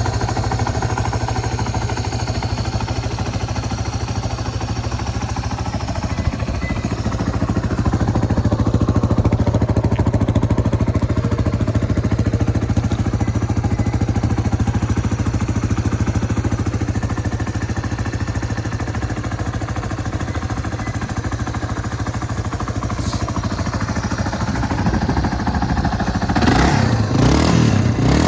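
Yamaha Serow 225W's air-cooled single-cylinder four-stroke engine idling steadily, then revved with a few quick throttle blips near the end.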